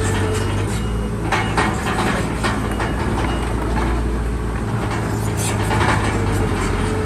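Bulldozer's diesel engine running steadily under load, with irregular metallic clanking from its steel tracks.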